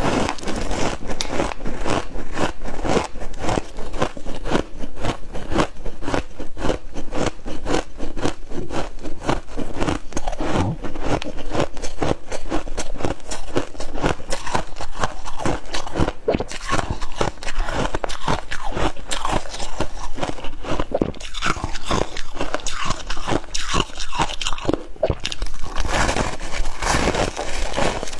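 A person biting and chewing crispy frost ice, a rapid, continuous run of loud crunches.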